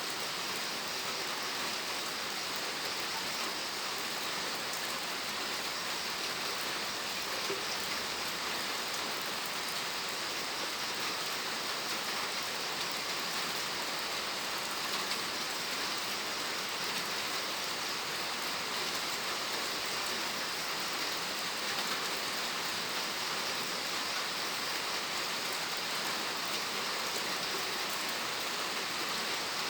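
Steady rain falling, an even hiss of many drops with faint individual drop taps.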